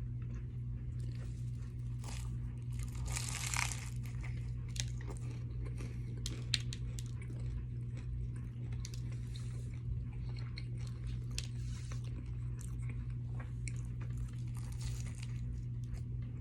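A person biting and chewing crunchy food close to the microphone, with scattered sharp crunches and clicks, the biggest about three seconds in. A steady low hum runs underneath.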